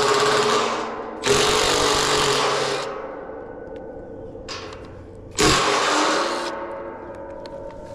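A cordless power driver running in short bursts: a run fades out in the first second, then two more runs about four seconds apart each start suddenly and last a second or so.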